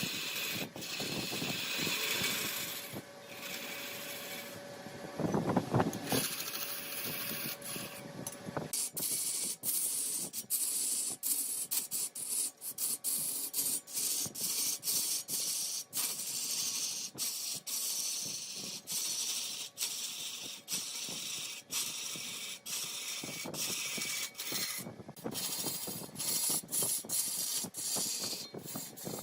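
Wood turning on a large lathe: a steady, hissing cut as the tool shaves the spinning wood, broken by short regular gaps about twice a second.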